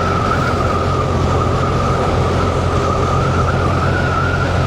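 Motorcycle riding at a steady cruising speed: a steady engine drone with wind and road noise, and a steady high whine over it.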